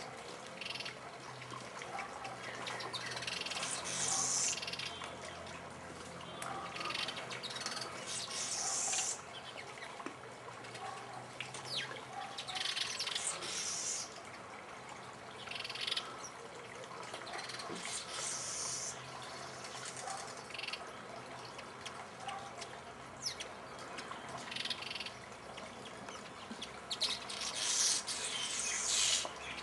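Birds calling, with bursts of high, hissing chirps lasting about a second every few seconds over a low steady hum.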